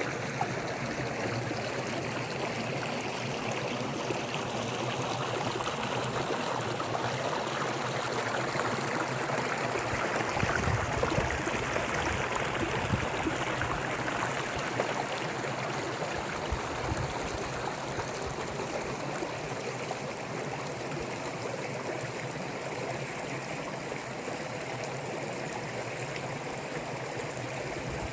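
A forest stream running over rocks with a steady rushing and gurgling of water, a little louder for a few seconds near the middle.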